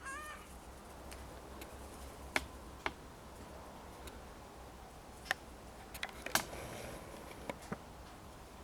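Scattered sharp clicks and taps, about a dozen at uneven intervals, over a steady low hum, with a brief high chirp at the very start.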